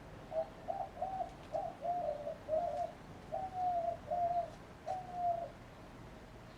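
A dove cooing: a run of about nine short, low coos, some rising and falling, over about five seconds.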